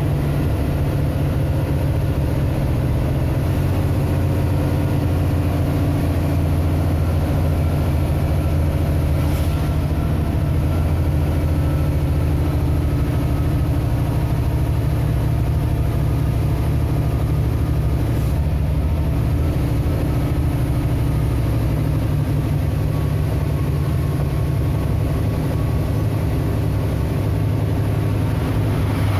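Vehicle engine running steadily at constant revs, a low droning hum.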